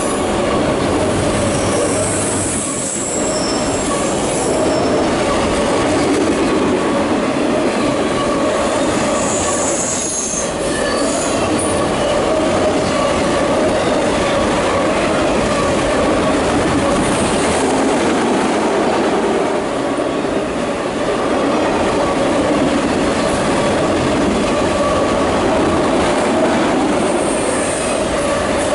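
Loud, steady rumble of a CSX freight train's autorack cars rolling past on the rails, with short high-pitched wheel squeals breaking through a few times.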